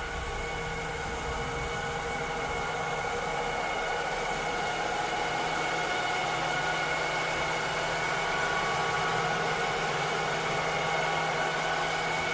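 Cleaning robot's motor running with a steady whir, several steady tones over a hum, slowly growing a little louder.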